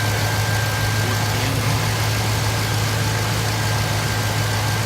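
2004 Chevrolet Silverado 1500's engine idling steadily on a cold start after six months of sitting, a low even hum with a thin steady whine above it.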